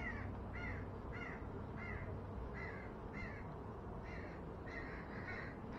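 A bird calling in a rapid series of short calls, about ten in all, a little over half a second apart.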